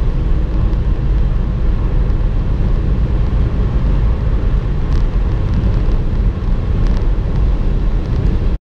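Ford Focus 1.0 EcoBoost three-cylinder turbo engine under acceleration at about 190–200 km/h, heard from inside the cabin as a steady, loud rumble mixed with wind and tyre noise. It cuts off abruptly at the very end.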